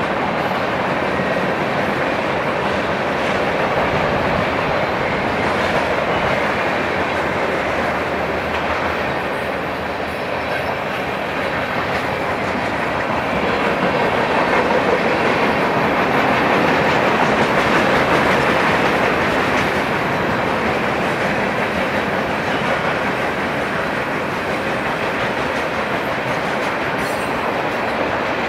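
Freight cars of a long train rolling past: a steady noise of steel wheels on the rails, growing somewhat louder around the middle.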